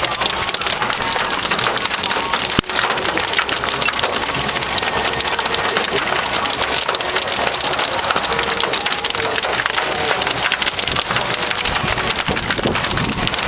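Hailstones pelting a hard surface in a dense, steady clatter of countless small impacts, mixed with rain. One sharper crack comes about two and a half seconds in.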